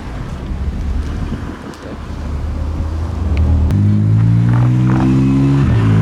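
A car engine rumbling low, then accelerating with a loud, slightly rising note for about two seconds before cutting off sharply near the end.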